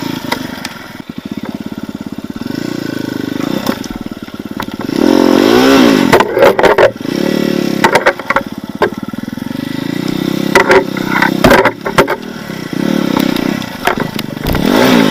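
Dirt bike engine on an enduro ride, chugging slowly at first, then revved up and down several times. Sharp knocks and clatters come in from about halfway through.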